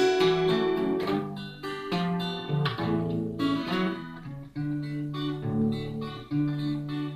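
Acoustic guitar strummed in a steady rhythm with changing bass notes, an instrumental break with no singing.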